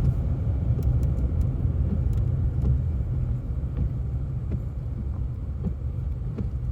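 Car driving, heard from inside the cabin: a steady low rumble of engine and road noise, easing a little about halfway through, with a few faint ticks early on.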